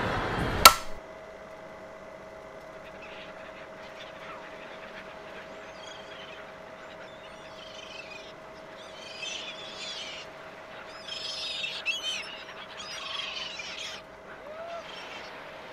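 A sharp click near the start cuts off a louder noisy sound. Then faint birds chirp in several short bursts over a steady faint tone.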